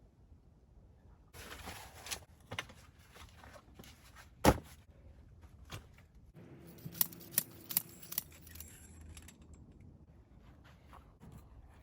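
Camp cooking gear being handled: scattered small clicks and light metallic clinks, with one sharp knock about four and a half seconds in.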